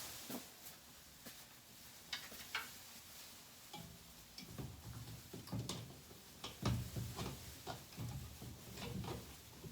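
Scattered light clicks and knocks, coming more often in the second half along with low thuds.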